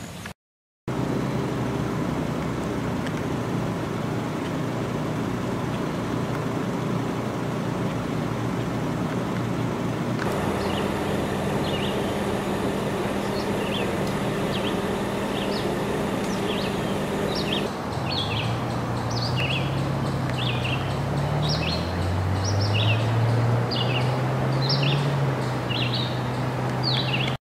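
Outdoor ambience across several cuts: a steady low motor hum throughout, its pitch wavering up and down in the last part. Over that last part, a bird calls with short falling chirps about twice a second.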